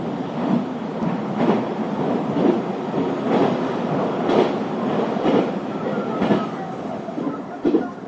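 Limited Express Shinano train running, heard from inside the car: a steady rumble with the wheels clacking over rail joints about once a second. A faint thin whine joins briefly past the middle.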